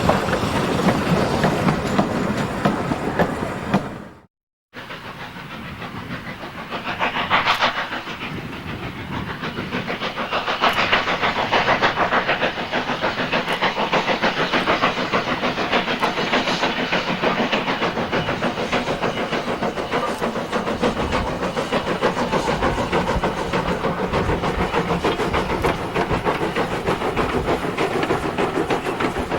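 Steam locomotive working a train on a heritage railway: steam hissing and exhaust with the clatter of the wheels and carriages on the rails. The sound breaks off for a moment about four seconds in and picks up again with another train, rising and surging a few times.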